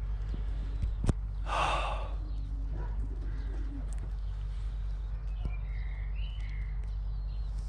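Outdoor ambience with faint short bird chirps over a steady low hum; a sharp click about a second in is followed by a brief breathy rush.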